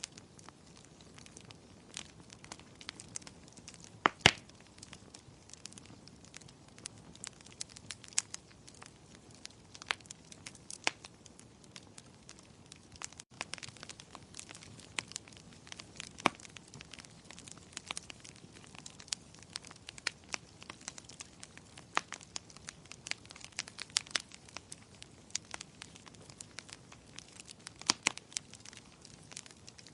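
Wood fire crackling: a steady scatter of small snaps and pops over a soft hiss, with a few sharper, louder pops, the loudest about four seconds in and again near the end.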